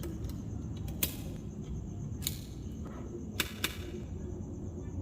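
Small magnetic balls snapping together in a few sharp clicks: three spaced about a second apart, the last of them doubled in quick succession. A steady low hum runs underneath.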